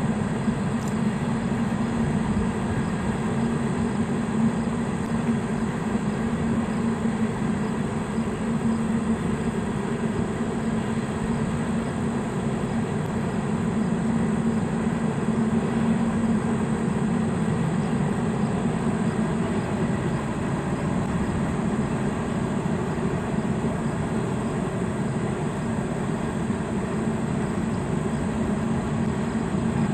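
Union Pacific train passing steadily: a continuous, even noise with a low hum that holds at one level throughout.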